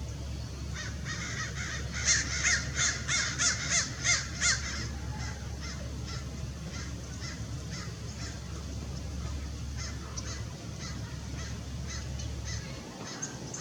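A bird giving a rapid run of about eight harsh calls, roughly three a second, about two seconds in, then fainter repeated calls. A steady low rumble runs underneath.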